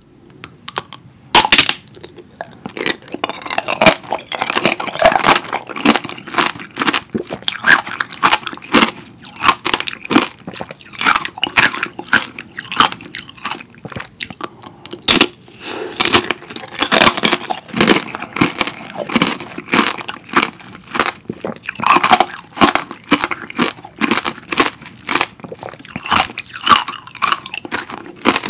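Crunching and chewing of fresh-strawberry tanghulu: the hard sugar-candy shell cracks in rapid, sharp snaps between the teeth as the strawberries are bitten and chewed. Especially loud snaps come about a second in and again halfway through.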